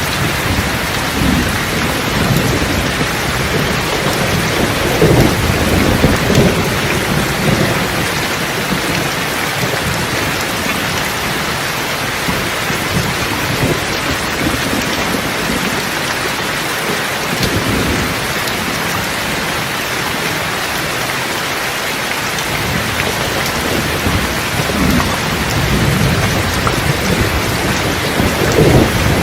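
Steady heavy rain with rolling thunder: low rumbles swell and fade in the first half and build again near the end.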